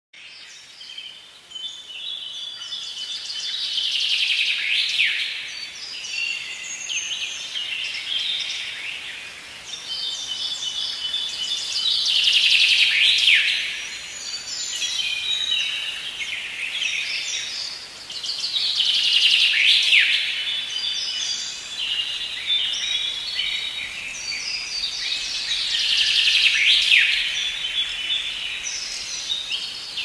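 Birds chirping and singing over a steady background hiss. The chirping swells louder, with a falling sweep, about every seven to eight seconds in the same repeating pattern, as a looped nature-sound recording would.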